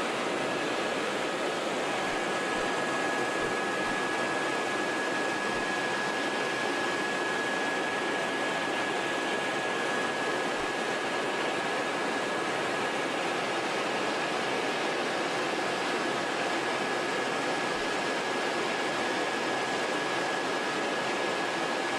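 Helicopter in flight heard from inside the cabin: a steady rushing drone with a faint high whine that strengthens about two seconds in.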